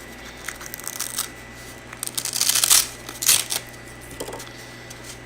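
Plastic packaging crinkling and rustling in bursts as it is handled and opened, loudest a couple of seconds in, with a few light clicks before.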